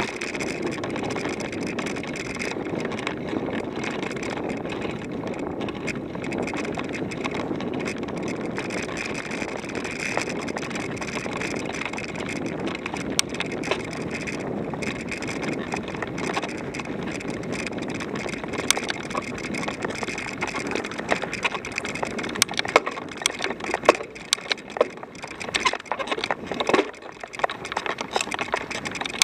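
Bicycle ridden along a trail: a steady rolling noise, with sharp clicks and rattles coming more often in the second half.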